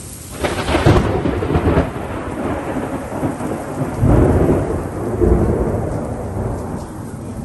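Thunder: a sudden crackling crash about half a second in, then a deep rolling rumble that swells twice more and slowly fades, over steady rain.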